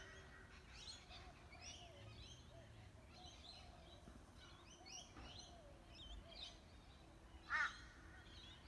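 Faint chorus of small birds chirping and twittering, with one loud harsh caw about seven and a half seconds in that is taken for a crow.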